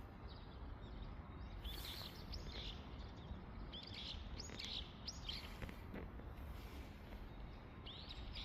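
Small birds chirping and calling in short clusters of quick high notes, three bouts of calls, over a steady low background hum of outdoor noise.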